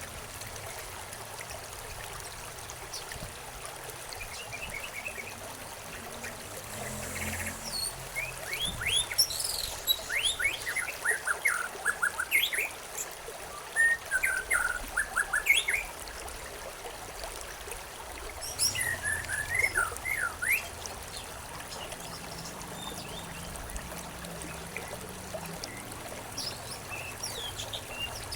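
Birds chirping and twittering in short rapid phrases over a steady trickle of running stream water; the calls come thickest through the middle, then thin out near the end.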